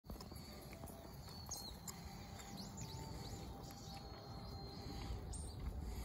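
Faint outdoor ambience: a steady low rumble with a few short, high, sweeping bird calls scattered through it.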